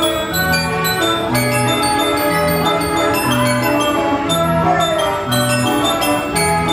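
Wurlitzer 157 band organ playing a tune: organ pipes with bright bell-like glockenspiel notes over a steady bass note about once a second.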